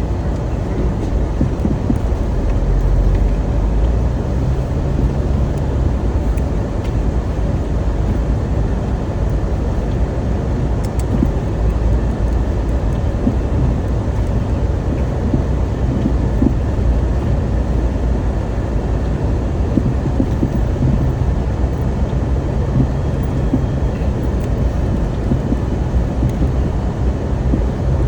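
Motor vehicle running: a steady low rumble of engine and road noise that holds even throughout.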